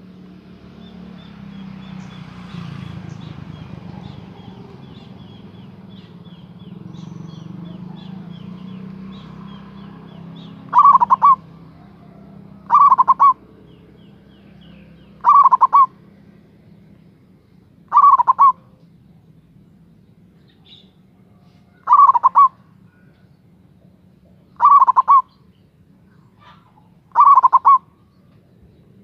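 Zebra dove (Javanese perkutut) cooing. Seven short, rapid, pulsed coo phrases come about two to three seconds apart, starting about ten seconds in after low background noise.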